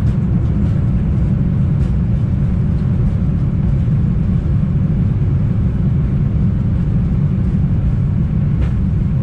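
Boeing 787-9 in reverse thrust on the landing rollout, heard from the flight deck: a steady, loud, deep rumble of the engines and the wheels on the runway as the airliner decelerates.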